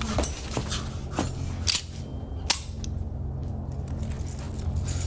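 Movie sound effects: a series of sharp knocks and clicks over a steady low hum.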